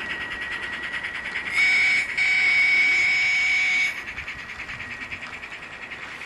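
Sound card of a Gauge 1 radio-controlled J94 saddle-tank model locomotive playing steady, rapid steam-exhaust chuffs as the loco runs. About one and a half seconds in, its steam whistle sounds: a short blast, then a longer one of nearly two seconds.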